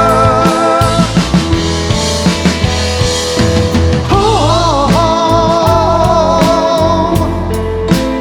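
Live band playing a rock song: drum kit hits over a steady bass, with held and bending melodic lines.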